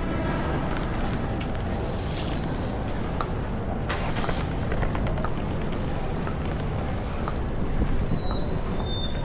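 Strong wind buffeting the microphone as a steady, flickering low rumble, over city street ambience. A couple of brief high beeps come near the end.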